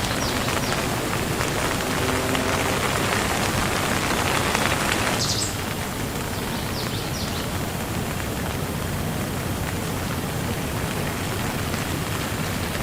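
Steady rain falling on a surface, a dense even hiss that turns slightly quieter and duller about five seconds in. A few faint, short high chirps sound over it.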